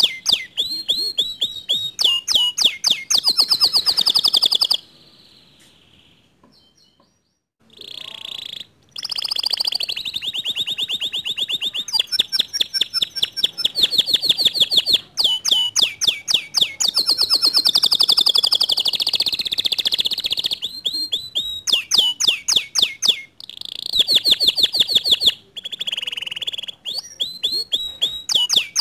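Domestic canary singing a loud, fast song of rapid repeated chirps and rolling trills, with a pause of about three seconds around five seconds in.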